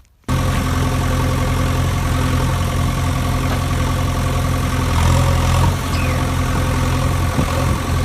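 Steady engine idling sound, a low even hum that cuts in abruptly just after a brief gap at the start.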